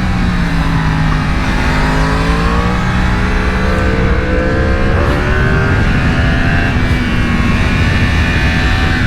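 Sport motorcycle engine under way, with wind rush. The engine note drops, then climbs as the bike accelerates, with a gear change about five seconds in, after which it holds steadier.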